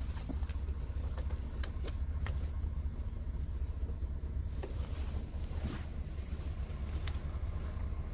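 Scania R tractor unit's diesel engine idling with a steady low rumble, with a few faint clicks.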